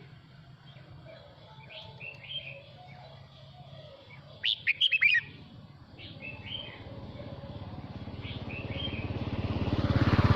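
Male red-whiskered bulbul singing: a short, loud burst of quick, bright notes about halfway through, with softer chirps before and after. Near the end a motor engine comes in and grows steadily louder.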